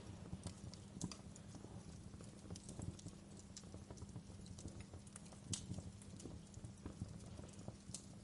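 Wood fire crackling: irregular sharp pops and snaps over a low steady rumble of the burning fire, with a louder pop about five and a half seconds in.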